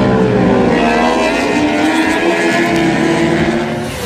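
Motorcycle engine running hard under the rider, its pitch rising and falling with the revs.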